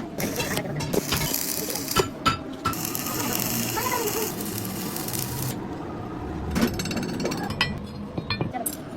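Metalworking on a steel ring spanner: scattered sharp metallic clicks and knocks, with a few seconds of harsh hissing noise in the middle.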